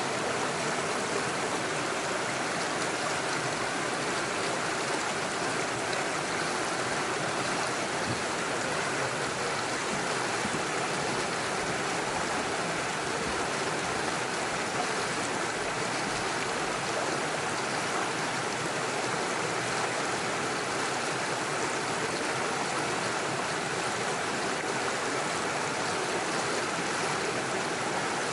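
Small forest stream rushing and splashing over stones and little waterfalls, a steady even water noise.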